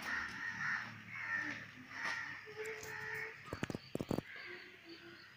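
A run of short, repeated bird calls, then a quick cluster of sharp clicks about three and a half seconds in.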